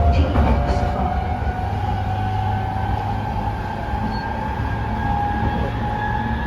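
Tsukuba Express electric train running, heard from inside the passenger car: a steady low rumble under a motor whine that slowly rises in pitch as the train picks up speed, with a few clicks about half a second in.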